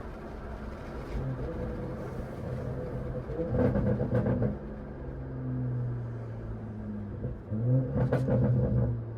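Straight-piped, catless BMW 540i B58 turbocharged inline-six exhaust while driving: a steady drone with two louder surges, about four and eight seconds in, each carrying a run of sharp crackles.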